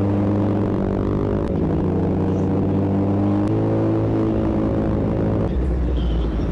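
Motorcycle engine running at a held pitch that changes in abrupt steps: down about a second and a half in, up around three and a half seconds, and down again near the end.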